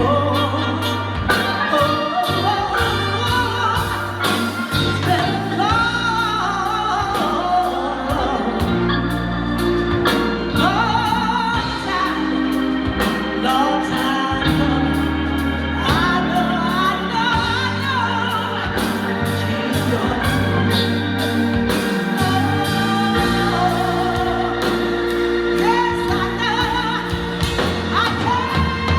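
A woman singing a song with wavering, vibrato-laden held notes over backing music with a steady beat and held bass notes.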